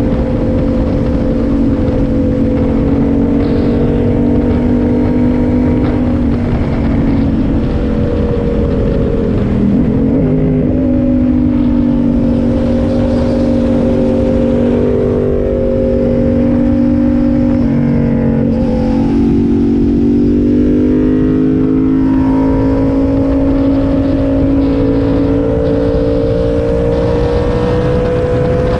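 Yamaha MT-07 parallel-twin engine running steadily, its pitch dipping and rising again a couple of times as the revs change.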